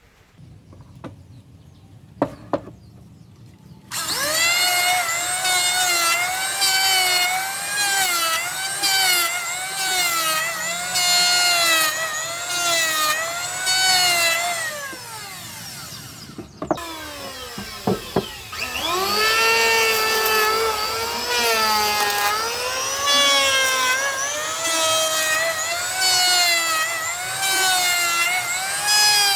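Handheld electric woodworking power tool run twice, cutting wood. Each time its motor whine spins up, then dips in pitch over and over as it bites into the timber, and the first run winds down before the second starts. A few sharp knocks on wood come before the first run.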